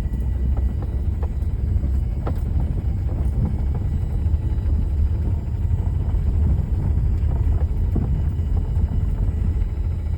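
A car driving over rough off-road ground: a steady low rumble of engine and tyres, with a few short knocks and rattles from the bumps.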